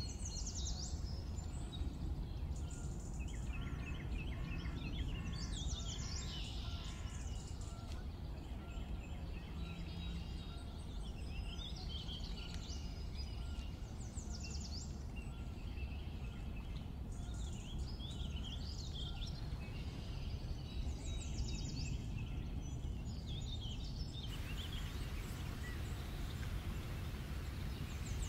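Birds singing and calling in outdoor ambience over a steady low rumble. A few seconds before the end, the background shifts to a steady hiss.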